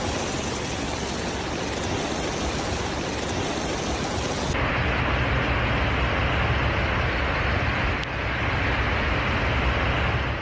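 Heavy rain falling in a steady hiss. About four and a half seconds in it changes abruptly to a louder, harsher rush.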